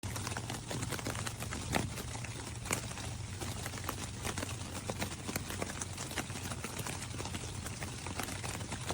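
Irregular light tapping and pattering, many small ticks a second, over a steady low hum.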